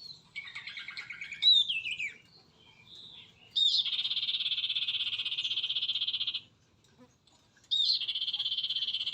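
Bird calls: a short trill and a quick falling whistle, then two long, even, rapid trills of about three and two seconds, each opening with a quick upward flick.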